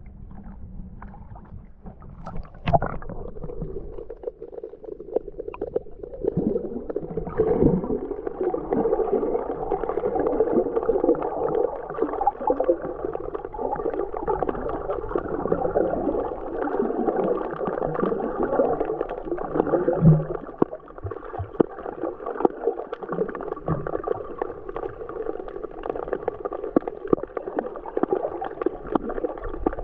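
Muffled rushing and gurgling of seawater heard through a camera held underwater in the sea. The sound grows fuller and louder a few seconds in.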